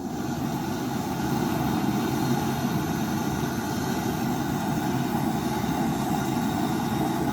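A small motor-driven machine running steadily with a low, even drone.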